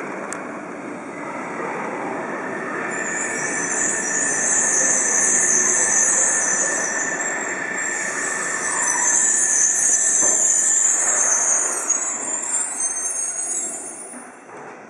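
A Yokohama Municipal Subway Blue Line train runs along the platform. Its wheels squeal loudly and high over the rumble of the cars, with a few clicks, and the sound dies away near the end.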